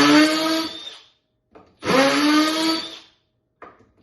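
Milwaukee M12 FUEL cordless drill/driver motor running in short trigger pulls while driving a screw: two bursts of about a second each, with a third starting at the end. Each one winds up quickly in pitch and then holds steady.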